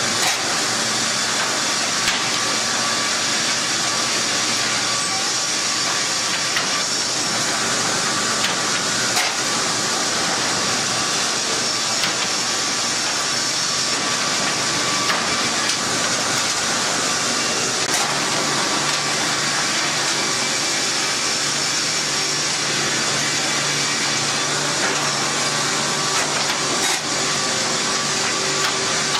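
Sawmill machinery running with a steady mechanical noise, broken by a few sharp clicks.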